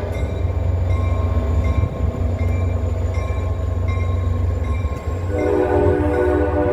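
NJ Transit train's horn sounding a multi-note chord: a blast ends right at the start, and the horn sounds again about five seconds in. Between the blasts a steady low rumble carries on, with faint dings repeating under a second apart.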